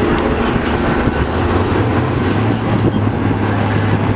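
Military 5-ton 6x6 truck's 8.3-liter Cummins diesel engine running with a steady low drone.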